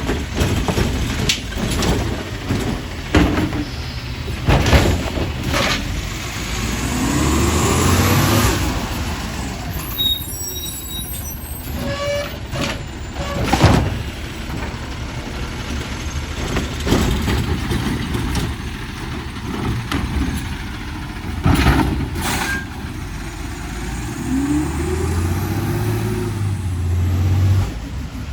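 City of Torrance refuse truck working: its diesel engine rumbles and revs up twice with a rising whine, once about seven seconds in and again near the end, with several short sharp hisses or bangs, one of them air-brake hiss.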